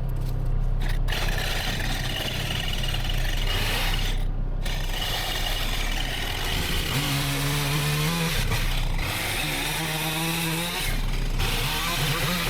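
Small petrol engine of a power tool running and revving up several times, over cutting and scraping through woody brush.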